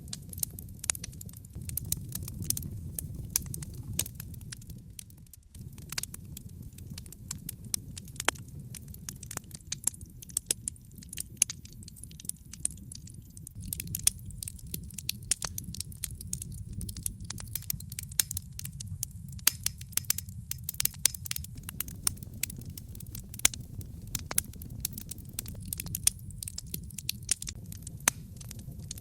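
Wood logs burning in a fireplace, crackling with frequent irregular sharp pops over a low steady rumble of flame, with a brief lull about five seconds in.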